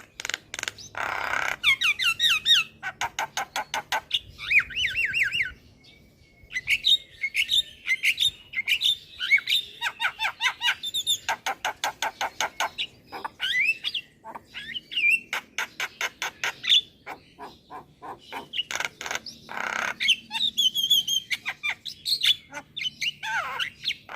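Javan myna singing: fast runs of dry clicks mixed with chattering whistled notes that sweep up and down, with a harsh rasping squawk about a second in and another about three-quarters of the way through.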